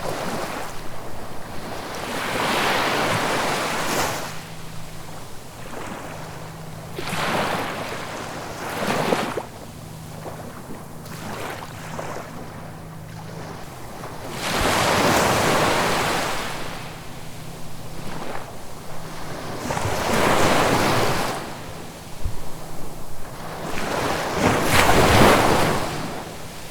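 Ocean waves breaking and washing ashore in about six surges that swell and fade every few seconds, the loudest near the end. A faint steady low hum runs underneath.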